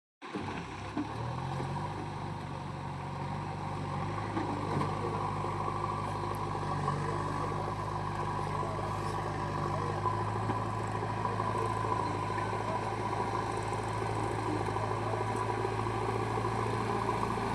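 Heavy farm machine's engine running steadily at an even speed.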